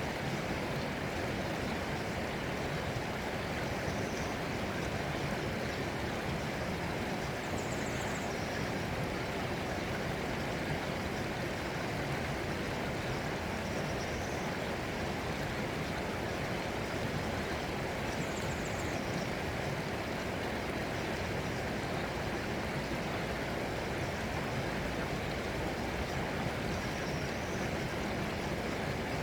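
Steady, even rush of flowing stream water. A few faint, short high chirps come through now and then.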